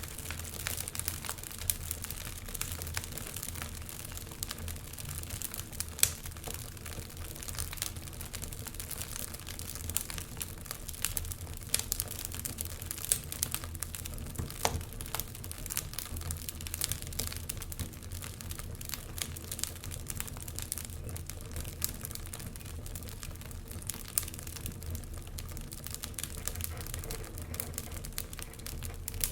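Fire burning in a fireplace, crackling with frequent irregular sharp pops over a low steady rumble; the loudest pop comes about six seconds in.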